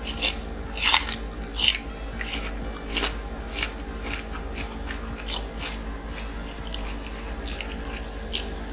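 Close-up crunching and chewing of a raw cucumber: irregular crisp crackles, loudest about a second in and again shortly after, then smaller crunches as the chewing goes on.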